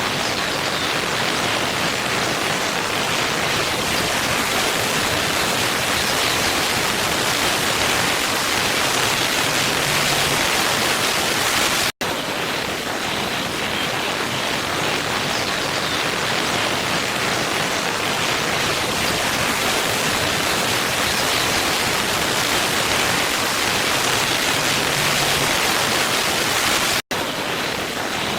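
Steady, even rushing of falling water from a waterfall, a constant hiss with no other events. It cuts out for an instant twice, about twelve seconds in and near the end.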